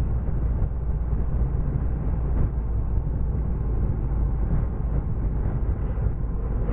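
Steady low rumble of a motorcycle ride: wind buffeting the microphone, mixed with road and engine noise.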